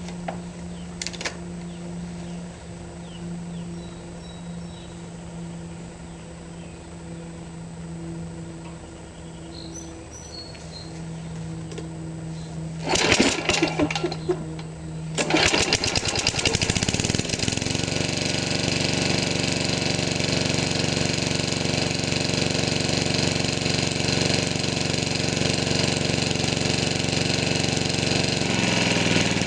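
Small engine cold-started after its primer bulb has been pumped by finger: a brief burst of cranking about 13 seconds in, then it catches about 15 seconds in and keeps running steadily. Before the start there is only a steady low hum.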